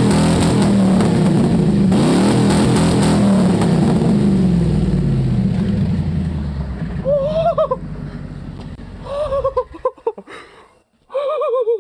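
Ford F-150 V8-class truck engine with its muffler deleted, running loud through the open pipe: it is revved twice, the pitch rising and falling, then dies away about seven seconds in. Short high wavering tones follow, three times.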